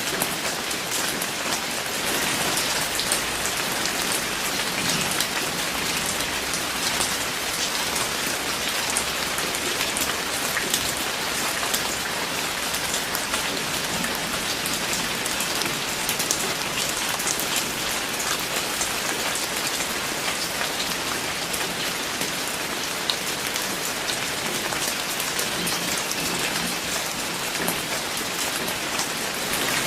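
Steady rain falling on a surface, with a dense patter of individual drops.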